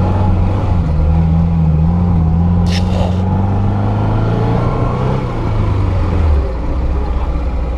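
Lada Niva (VAZ-2121) 1.6-litre four-cylinder engine running steadily under way, its pitch wavering a little and then dropping about six seconds in. A short hiss about three seconds in.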